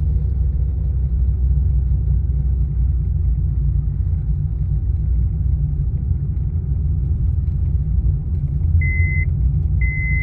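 Steady low rumble of engine and road noise inside a moving car, with two short high beeps near the end.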